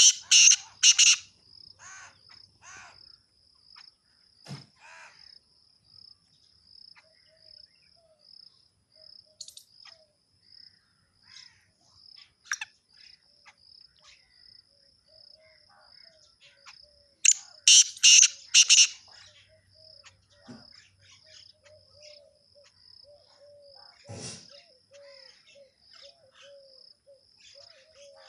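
Parrots screeching in loud, harsh calls: a cluster at the start and another about 17 seconds in, with scattered shorter calls between. Behind them a high, even pulsing chirp repeats a few times a second.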